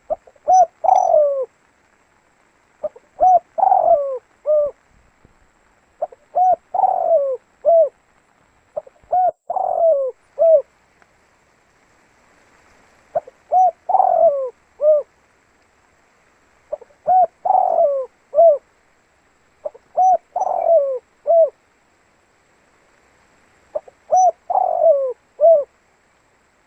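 Spotted dove (tekukur) cooing: a phrase of several short coo notes repeated eight times, every three seconds or so, with a longer pause about halfway through.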